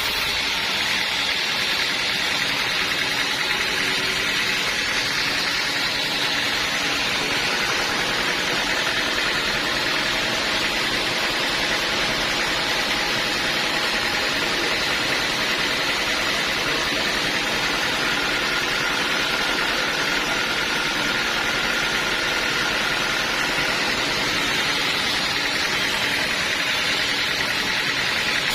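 Band sawmill running steadily, a constant hiss of the blade through the wood over the hum of the mill, with a faint steady whine in the middle of the stretch.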